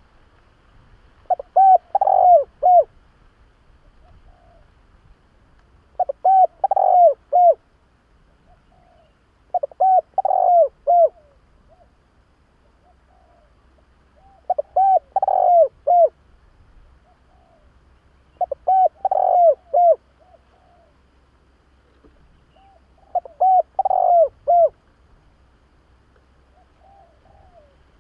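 Spotted dove cooing: six phrases of about four or five short, downward-curving coos, each phrase about a second and a half long and repeated every four seconds or so.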